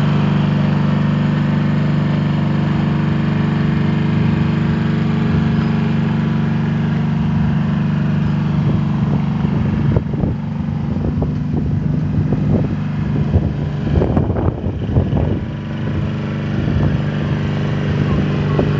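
Riding lawn mower engine running steadily with an even hum. In the second half short, irregular sounds come in over it.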